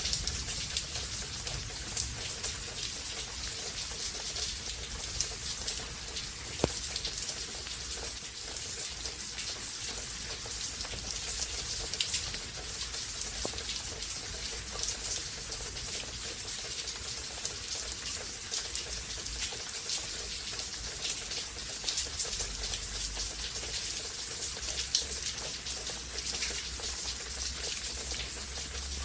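Steady heavy rain, a dense hiss of falling drops with scattered sharper drips and taps.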